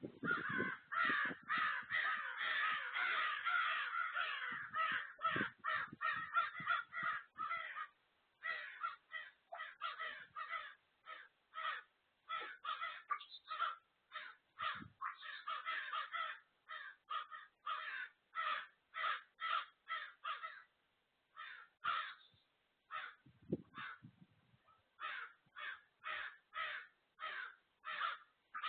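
Harsh, cawing bird calls repeated in a long series. Several birds overlap for the first several seconds, then single calls follow at about two a second with a few short pauses, and there are some low thuds near the start and again later.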